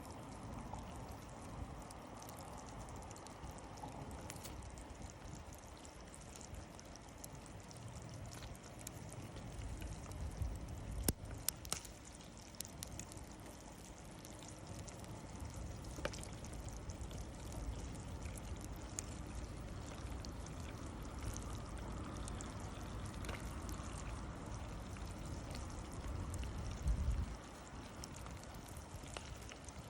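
Wood campfire burning with a steady hiss and scattered sharp crackles and pops, the loudest about eleven seconds in; a low rumble swells now and then.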